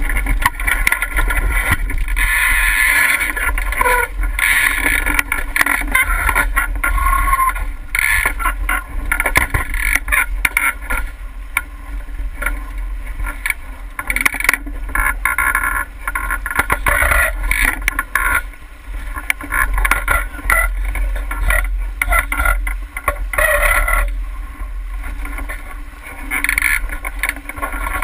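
Boat under way on open water: irregular rushing and splashing of water, with a steady low rumble underneath.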